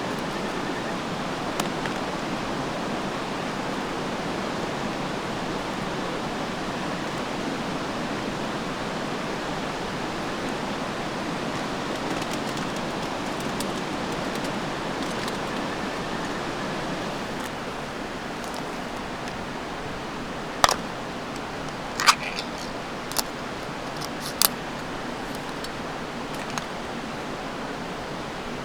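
A steady rushing noise like running water, easing slightly partway through. Near the end come five sharp clicks or knocks, the first two the loudest.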